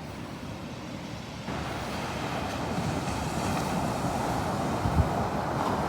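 Ocean surf washing on the beach, with wind buffeting the microphone as a low rumble; the hiss of the surf gets louder suddenly about a second and a half in.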